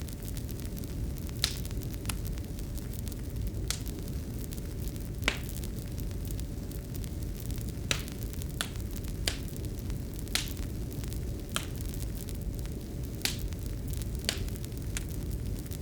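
Wood fire crackling in a fireplace: irregular sharp pops and snaps, roughly one a second, over a steady low rumble with a faint constant hum.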